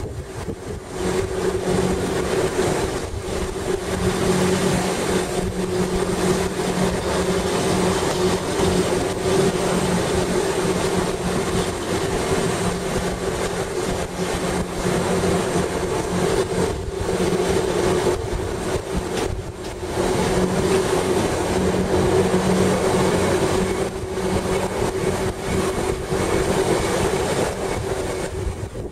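Gornergratbahn electric rack-railway train heard from on board while running downhill: a steady drive hum with two held tones over continuous running noise from the wheels and rack.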